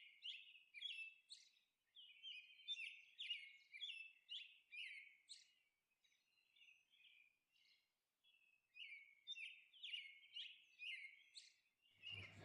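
Faint, high chirping of small birds in quick runs of short chirps, breaking off for about three seconds in the middle before starting again.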